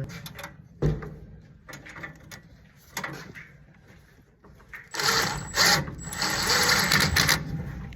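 Metal knocks and clicks from hand tools working in a tight spot of a gas furnace, as the cleaned flame sensor is fastened back in; about five seconds in, a couple of seconds of dense, loud clicking and scraping on metal.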